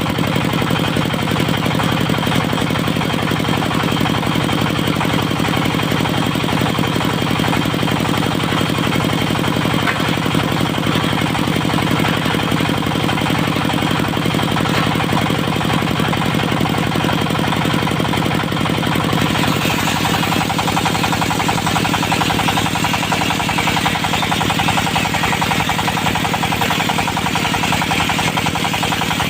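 Diesel engine running steadily, driving a portable circular sawmill with a knocking beat. About two-thirds of the way through a harsher, higher hiss joins in.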